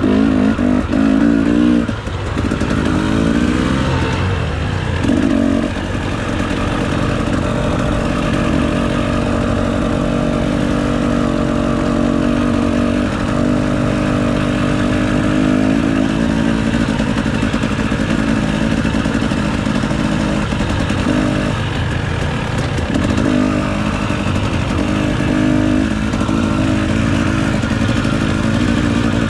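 Dirt bike engine running continuously, its revs rising and falling, loudest in the first couple of seconds.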